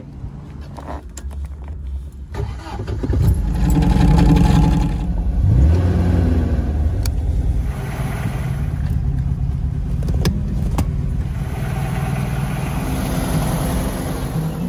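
Car engine starting and revving up, loudest about four to six seconds in, then running steadily, with a few sharp clicks.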